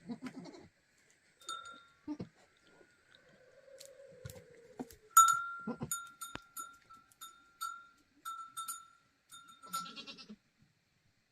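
Farm animals calling: a few scattered cries, then a run of about eight short, same-pitched calls in quick succession in the second half.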